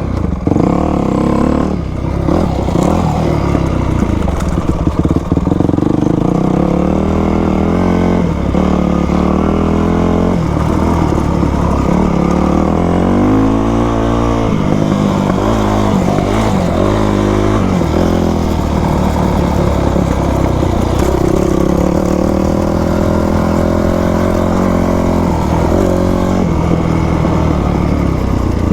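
2000 Yamaha YZ250 single-cylinder two-stroke dirt bike engine running while ridden, revving up and easing off again and again, then holding steadier for a while near the end.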